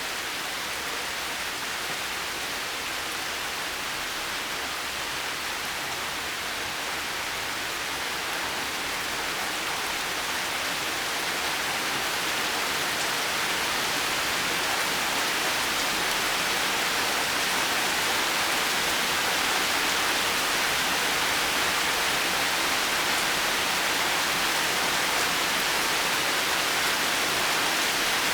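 Steady, even rain falling, a dense hiss with no distinct drops or thunder, swelling a little louder about halfway through.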